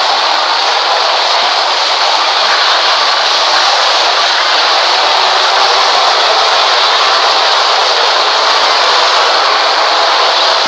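Freight train passing: a steady, loud, harsh rushing noise with no deep rumble, like a heavily distorted train sound effect.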